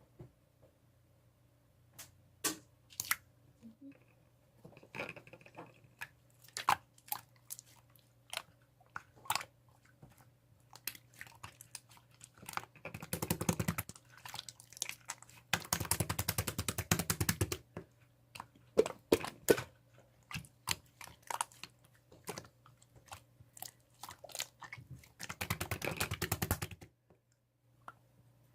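Slime being squeezed and pressed by hand, giving scattered sharp clicks and pops. There are three stretches of dense crackling, about thirteen, sixteen and twenty-five seconds in. A faint steady hum runs underneath.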